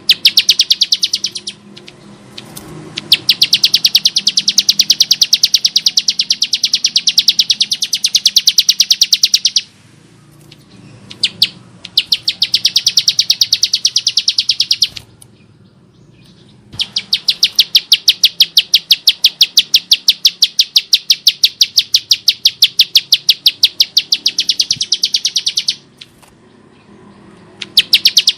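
Bar-winged prinia (ciblek sawah) calling in long runs of rapid, evenly repeated harsh high notes, four or five runs broken by short pauses.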